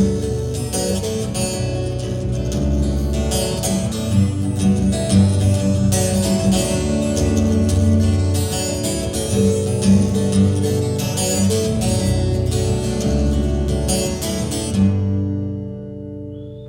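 Live band with acoustic guitar playing the instrumental outro of a country-rock song, ending on a final chord about fifteen seconds in that rings out and fades.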